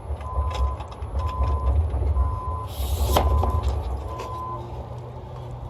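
A vehicle's reversing beeper sounding about once a second over the low rumble of a large engine, with a short hiss about three seconds in; the beeping stops after about four and a half seconds.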